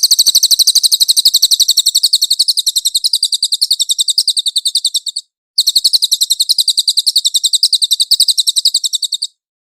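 A cililin bird singing two long rapid trills of high, sharp notes, about ten notes a second. The first trill breaks off about five seconds in, and the second starts after a brief pause and stops shortly before the end.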